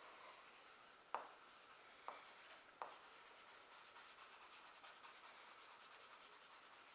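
Faint rubbing of a kneaded eraser worked in small circles over charcoal on drawing paper, with three light clicks about one, two and three seconds in.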